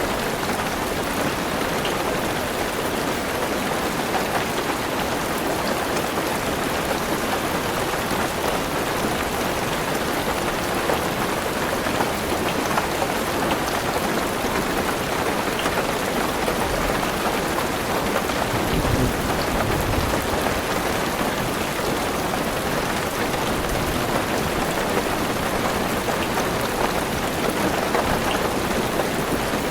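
Heavy rain drumming steadily on a car roof, a dense patter of drops, with a brief low rumble about two-thirds of the way in.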